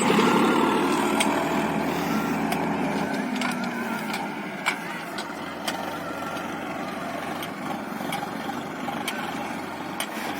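Tractor engine running, its sound fading away over the first four seconds or so, leaving a quieter steady background with scattered sharp clicks.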